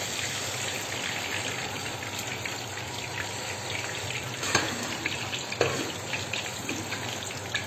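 Aubergine (eggplant) chunks deep-frying in a pan of hot oil: a steady sizzle with crackling. Two light knocks come about midway, a little over a second apart.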